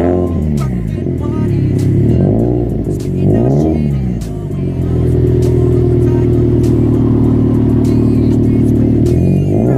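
Subaru WRX flat-four engine revving through a custom cat-back exhaust. There are three quick throttle blips in the first few seconds, then the revs are held steady for about four seconds before dropping, and another blip comes near the end.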